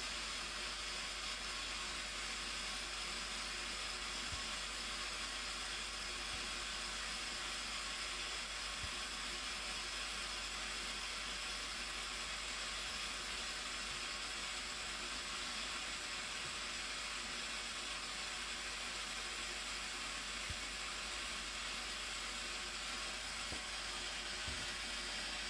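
Steady, unbroken rush of falling water from the Blue Nile Falls, an even hiss with no change in level.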